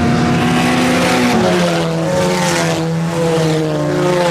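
IMCA Sport Compact race cars' four-cylinder engines running hard on the dirt oval, several engine notes overlapping, the main engine pitch dropping about a second in.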